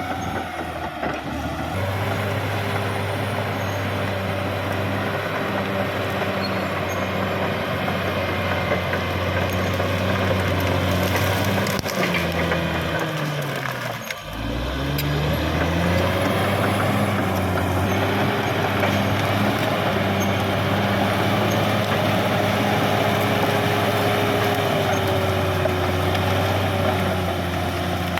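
Caterpillar D6R XL bulldozer's diesel engine running steadily. About halfway through, its pitch sinks and it briefly drops off, then it revs back up and runs on a little louder.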